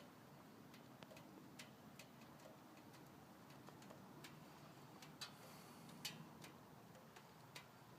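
Near silence: faint, irregular light ticks, roughly two a second, over a low hum.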